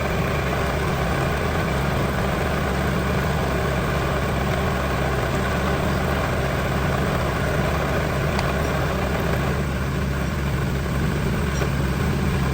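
Lathe running with a steady mechanical hum and low drone, even throughout.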